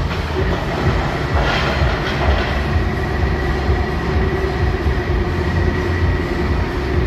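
Welding manipulator's drive running as the machine travels, a steady low mechanical rumble with a thin steady whine over it; a brief hiss rises and fades about a second and a half in.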